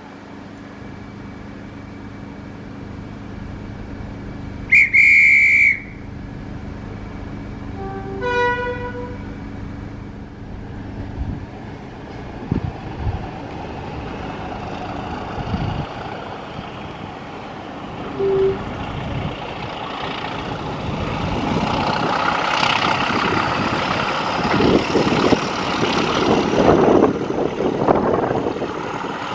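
A shrill railway guard's whistle sounds once for about a second. A few seconds later the Class 31 diesel locomotive gives a short horn note. From about two-thirds of the way in, the train's engine and running noise build steadily as it gets under way, with a slowly rising whine.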